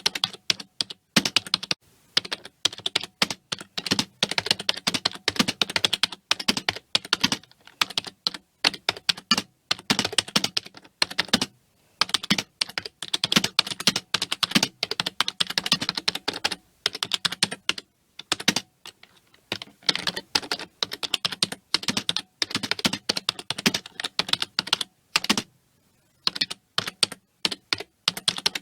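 Typing on a computer keyboard: continuous fast runs of key clicks broken by short pauses.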